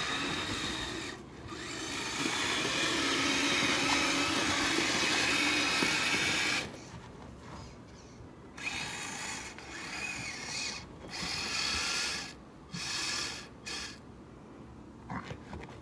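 Electric motor and tracks of a Kyosho Blizzard RC snowcat whirring as it drives through snow. There is one long run of about five seconds, then several short bursts of throttle about a second each.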